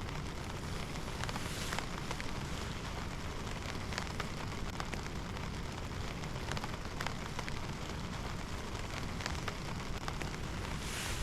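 Heavy rain falling steadily, with a dense hiss and scattered louder individual drops striking close by.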